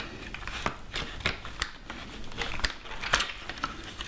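A hard plastic panel cover being cut out with a hand tool: irregular sharp snips and cracks, about six over the few seconds, with handling noise between.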